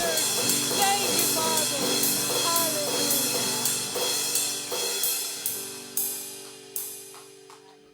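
Live worship band music dying away: sustained keyboard-like chords under repeated cymbal strikes, with a melody line in the first few seconds, the whole fading steadily to near silence by the end.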